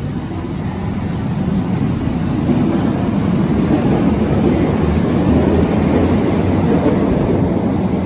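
Berlin U-Bahn large-profile train running on the rails, a steady low rumble that grows louder after about two seconds.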